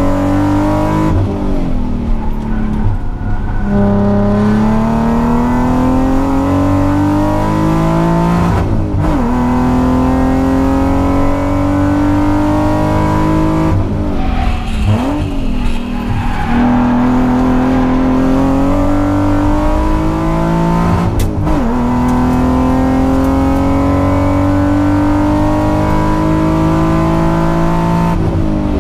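Nissan 300ZX's naturally aspirated 3.0-litre VG30DE V6 heard from inside the cabin, pulling hard through the gears on a flying lap: the engine note climbs steadily and falls sharply at each gear change, several times, with unsettled stretches of lifting, braking and downshifting between the long pulls.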